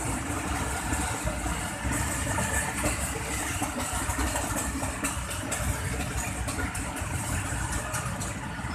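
Passenger coaches of a train rolling past at speed: a steady rumble of steel wheels on the rails, with occasional sharp clacks.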